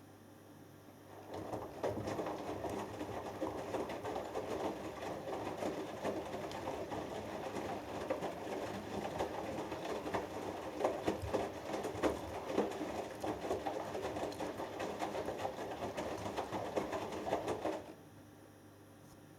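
Hoover Dynamic Next washing machine's drum turning with a wet 6 kg cotton load during the wash. The churning starts about a second in, runs for about 16 s with many small irregular knocks and swishes, then stops suddenly, leaving only a low hum.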